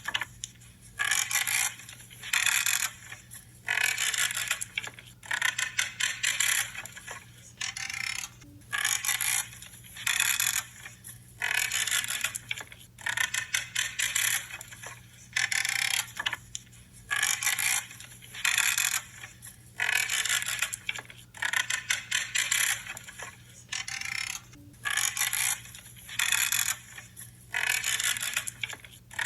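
Branches being cut with pruning shears: a short creaking, crunching snip about once a second, over a faint steady low hum.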